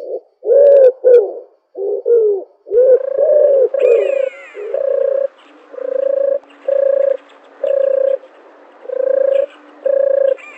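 Dove cooing: a few irregular, bending coos, then a steady series of short, even coos a little more than one a second.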